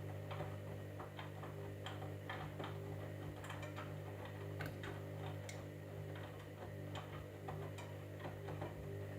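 Candy EcoMix washing machine running a wash: a steady low motor hum with irregular light clicks and taps a few times a second.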